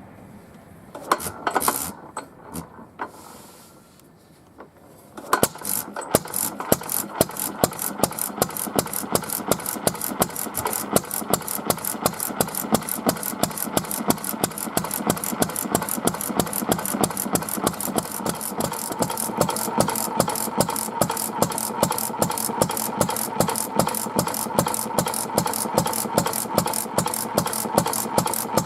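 Takahashi Karui 2.5 hp oil-burning stationary engine being started: a few knocks and clatters early on, then about five seconds in it catches and runs with rapid, evenly spaced firing beats and a mechanical rattle.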